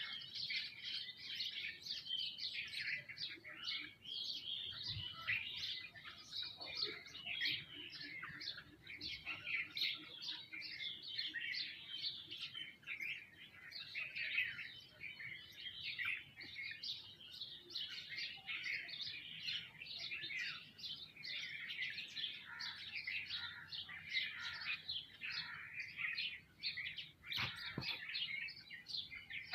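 A flock of small birds, sparrows and mynas, chirping constantly in many overlapping short calls. A single soft knock comes near the end.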